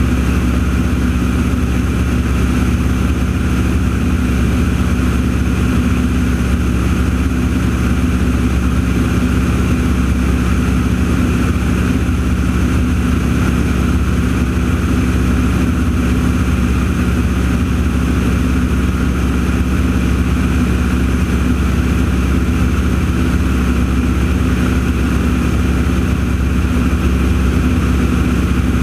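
A steady engine drone that holds the same pitch and loudness throughout.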